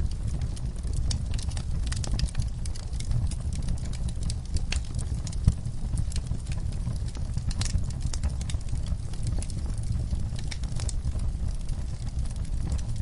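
Wood fire burning in a fireplace, crackling and popping irregularly over a low steady rumble of the flames, with one sharper pop about five and a half seconds in.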